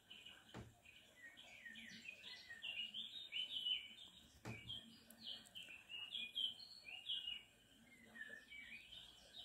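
Small birds chirping in quick, busy runs of short notes, with two soft knocks, about half a second in and about four and a half seconds in.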